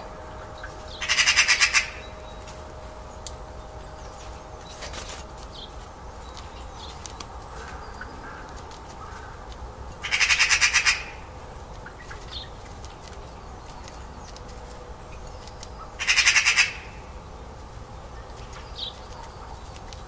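A bird giving a harsh, rasping call three times, each under a second long, about one, ten and sixteen seconds in, with a few faint short chirps between.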